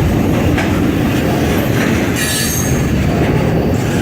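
Freight train rolling past close by: a loud, steady rumble of steel wheels on the rails with a few knocks, and a high wheel squeal from about two seconds in.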